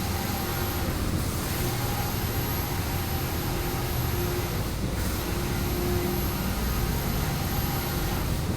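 Air-conditioner outdoor unit running steadily, a constant whirring hum with faint steady tones that fade in and out.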